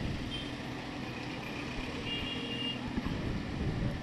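Vehicle engines running steadily in road traffic, a low hum, with a short high beep near the start and a longer two-tone beep about two seconds in.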